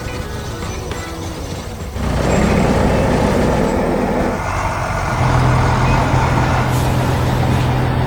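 Music for about two seconds, then a loud heavy-vehicle engine sound that runs steadily, its low hum shifting to a deeper, stronger note about five seconds in.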